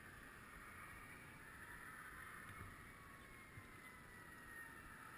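Near silence: a faint steady hiss, with a faint tone slowly falling in pitch.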